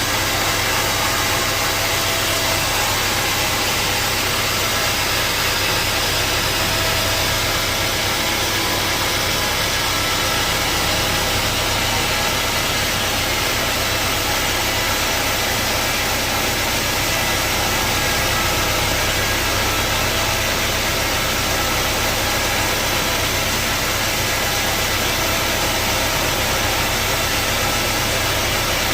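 Sawmill machinery running steadily: a constant mechanical drone with a low hum and a broad hiss, unchanging throughout.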